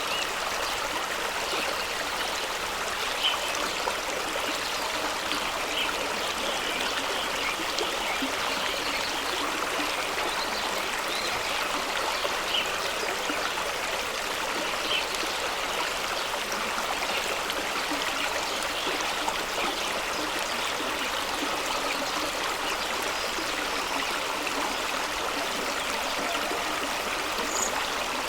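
Fast-running waterfall stream rushing over rocks: a steady, even rush of water, with brief small splashes standing out now and then.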